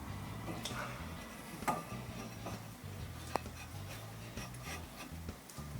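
A few light clicks and knocks of metal parts being handled as a brake caliper is fitted back over the front disc rotor, the clearest about a second and a half in and again past three seconds.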